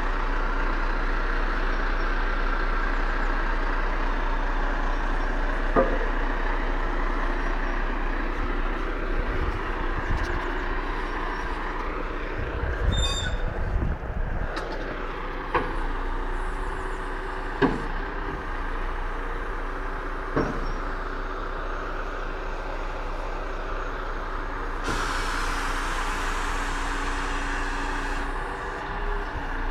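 A truck running steadily, with a few sharp knocks and a burst of hissing air about three seconds long near the end.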